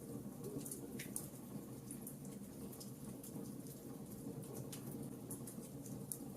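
Wood fire crackling: many small, irregular sharp pops and snaps over a steady low hiss.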